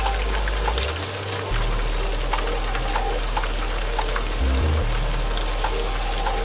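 Food frying in a hot pan: a steady sizzle with scattered crackles and pops, over background music with a low bass line.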